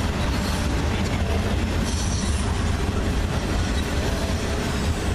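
Loaded coal hopper cars of a freight train rolling past at a grade crossing: a steady rumble of steel wheels on the rails.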